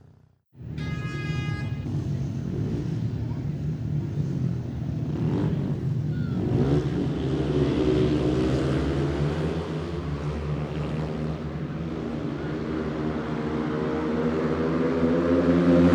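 Motorsport vehicle engine running, its note slowly rising and growing louder, starting after a brief silence about half a second in.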